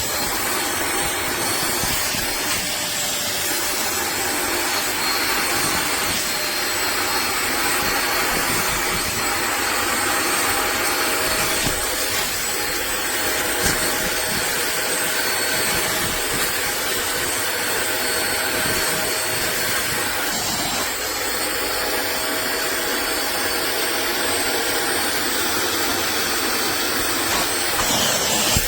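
HAUSHOF StainZapper 400 W upholstery water vacuum running steadily, its motor giving a constant rushing noise with a high whine.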